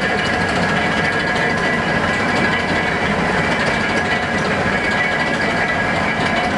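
Steam-era railway turntable in operation: a steady mechanical running sound with a constant whine over a low rumble.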